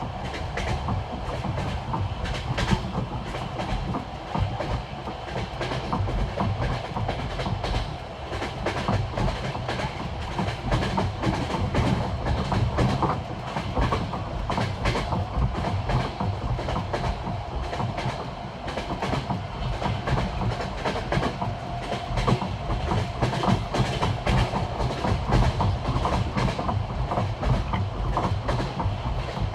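Passenger train wheels knocking over the rail joints of old jointed (non-welded) track: the classic clickety-clack, over a steady rolling rumble.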